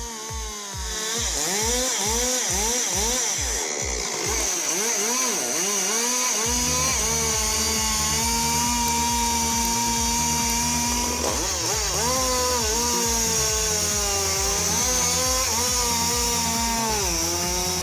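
Husqvarna 395 XP two-stroke chainsaw revving up and down over and over, then held steady at high revs for a few seconds as it cuts through a log.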